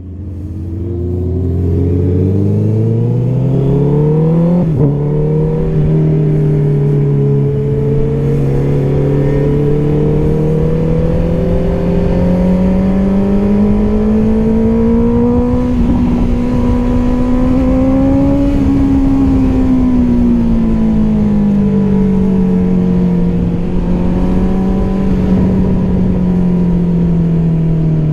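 Honda CBR650R's inline four-cylinder engine through an Akrapovic exhaust, revving up from low speed and shifting up about five seconds in, then climbing slowly in pitch before easing off about eighteen seconds in.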